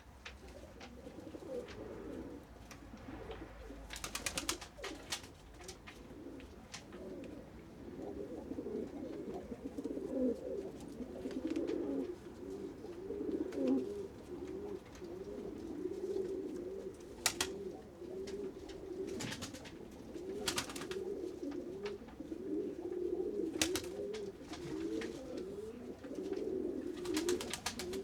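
A flock of pigeons cooing continuously in overlapping low warbling calls. Sharp clicks and taps break in every few seconds, some in quick little clusters.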